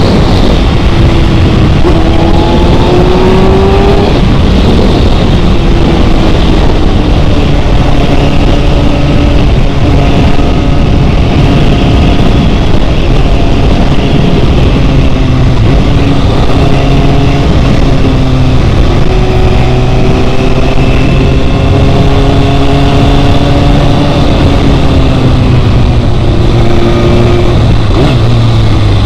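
Motorcycle engine under way, its pitch rising and falling as the bike speeds up and slows, under loud wind rush on the microphone.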